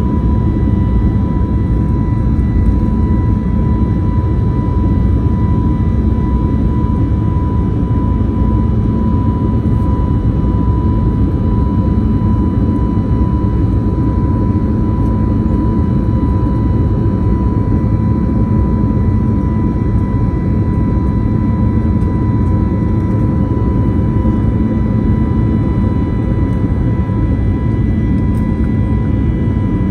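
Airbus A321neo's CFM LEAP-1A turbofans heard from inside the passenger cabin, running steadily at high power: a loud, even rumble with a steady whine on top.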